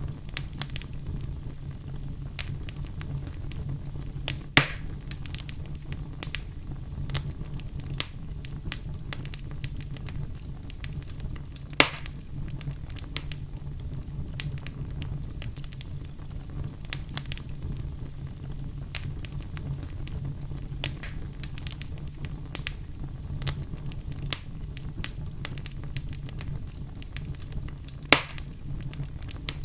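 Fire crackling in a fireplace: a steady low rumble under frequent small crackles, with three louder pops, one about four seconds in, one about twelve seconds in and one near the end.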